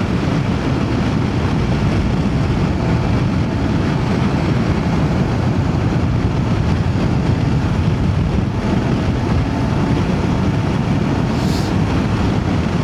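Voge DS525X parallel-twin motorcycle engine running at a steady cruise, heard with wind noise over the rider's microphone. A brief hiss near the end.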